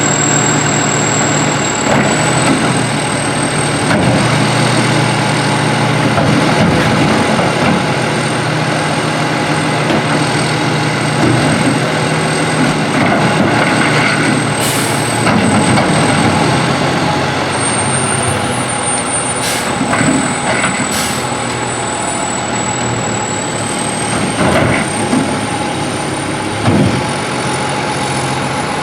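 McNeilus AFE front-loader garbage truck on a Condor chassis, its diesel engine running steadily with a constant high-pitched whine that steps up slightly about two seconds in and again near the end. There are three short air hisses around the middle.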